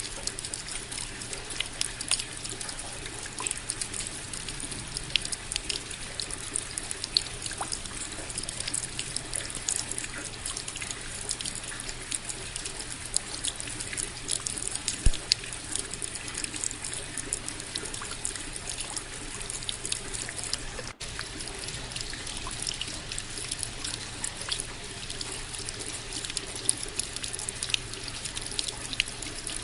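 Steady rain: an even hiss with many separate close drops landing as sharp ticks. The sound cuts out for an instant about two-thirds of the way through.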